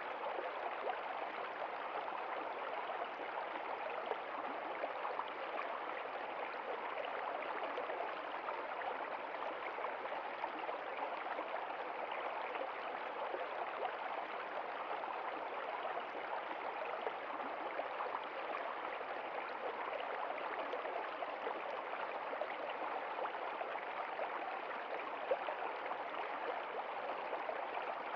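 Running water splashing steadily, like a small stream, with no change throughout.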